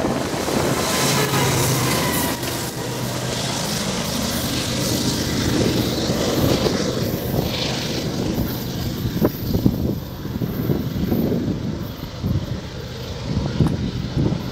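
Freight train going by: the last double-stack container cars rumble past on the rails, then the rear diesel locomotive's engine hum carries on steadily and fades as the train pulls away. Irregular wind buffeting on the microphone in the last few seconds.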